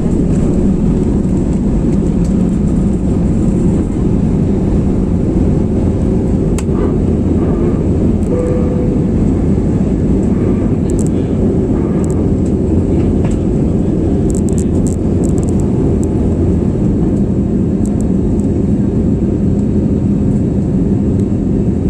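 Airbus A321neo jet engines at high takeoff thrust, heard as a steady, loud, deep cabin rumble with a faint hum, with a few faint light rattles in the middle.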